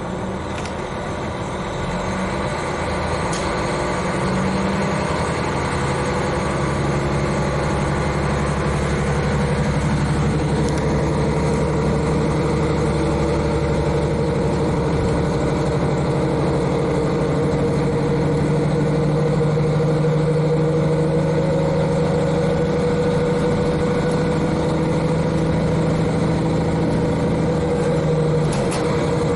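KiHa 40 diesel railcar's N-DMF13HZI diesel engine under power, heard from inside the car directly above it. The engine note steps up a few seconds in and grows louder, then holds steady as the car gets under way.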